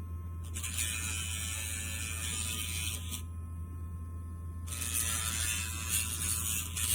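Casfuy cordless dog nail grinder running with a steady whine, its spinning bit grinding down a dog's nail in two stretches: from about half a second in to three seconds, and again from nearly five seconds on.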